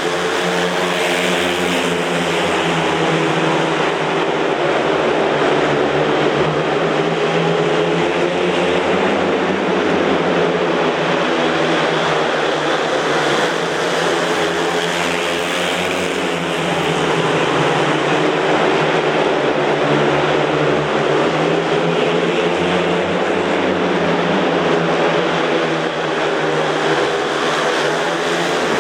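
Four speedway motorcycles racing, their 500 cc single-cylinder methanol engines running hard, the pitch rising and falling over and over as the bikes go through the bends.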